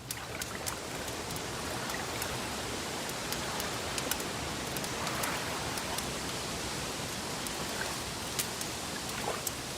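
A wood fire crackling, with scattered sharp pops and snaps over a steady rushing hiss.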